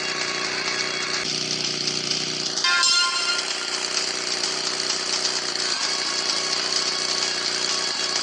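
Small motorcycle engine running at high revs with a steady buzz, briefly louder about three seconds in.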